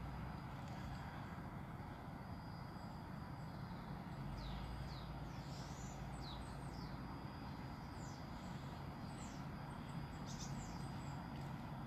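Small birds chirping faintly: a scatter of short, quick downward-sweeping calls, most of them from about four seconds in, over a steady low rumble.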